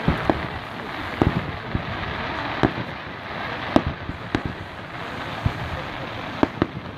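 Aerial fireworks shells bursting: about a dozen sharp bangs at uneven intervals, sometimes two in quick succession, over a steady background hiss.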